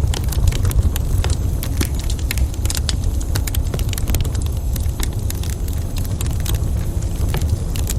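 Wood fire in a fireplace crackling, with many quick sharp snaps and pops over a steady low rumble.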